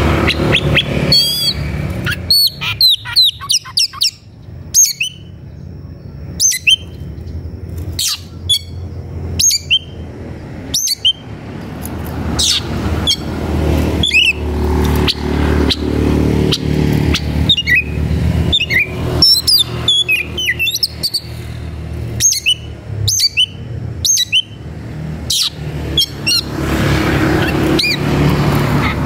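Oriental magpie-robin (kacer) singing an agitated territorial song, the kind used to provoke a rival. It gives a rapid series of loud, sharp whistles and chirps that sweep quickly up and down in pitch. A steady low rumble runs underneath.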